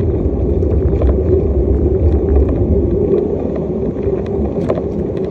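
Steady low rumble of wind buffeting the microphone and tyre-on-road noise while riding a bicycle, with scattered light clicks; the deepest rumble eases after about three seconds.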